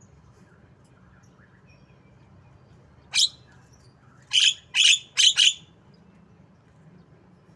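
Javan myna giving four loud, harsh calls: one about three seconds in, then three in quick succession about a second later.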